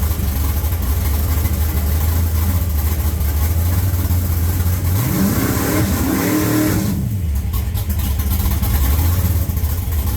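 Engine of a 1955 gasser drag car running at idle, blipped once about five seconds in: the pitch rises for about a second, falls back, and the engine settles to idle again.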